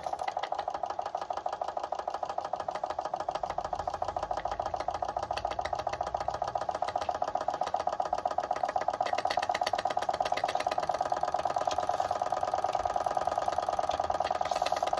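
Machinator Steamfire small oscillating-cylinder live steam engine running fast under steam: a rapid, even beat of exhaust strokes over a steady mid-pitched hum, getting a little louder about halfway through.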